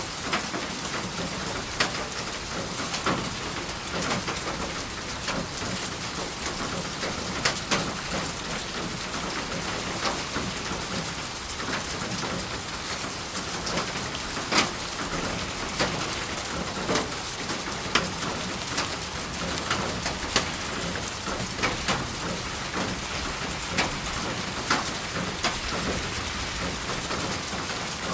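Steady rain falling on a surface, with frequent sharp individual drop hits scattered through it.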